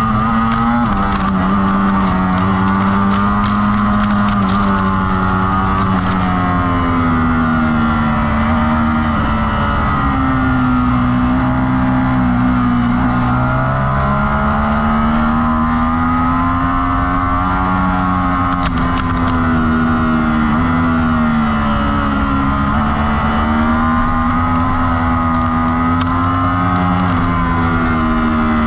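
2020 Ducati Streetfighter V4's V4 engine running hard, heard onboard while the bike is ridden on track. The engine note rises and falls repeatedly with throttle and speed, with a noticeable drop and climb about twelve to fourteen seconds in.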